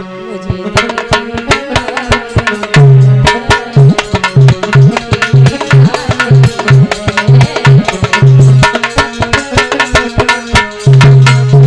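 Instrumental interlude of Indian folk music: a fast, dense hand-drum rhythm with deep bass strokes, over steady held melodic tones.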